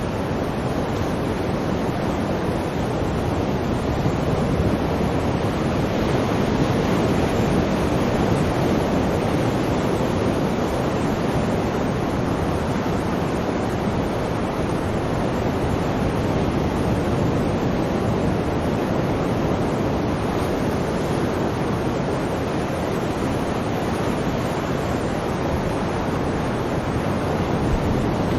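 Sea waves washing on a shore: a steady rushing surf that swells slightly now and then.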